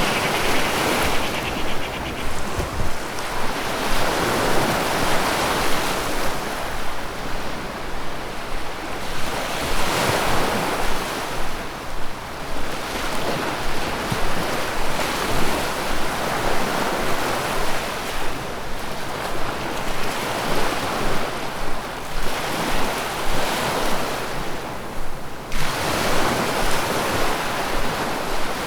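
Rushing river water, a steady wash that swells and eases every few seconds.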